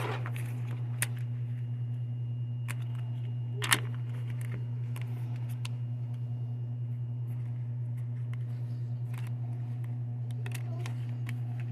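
A steady low hum of store background noise, with scattered small clicks and handling sounds and one sharper click a little under four seconds in.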